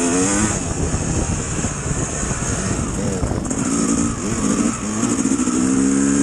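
Dirt bike engine running under a rider, its pitch climbing as the throttle opens at the start and again about four seconds in, then holding steady near the end.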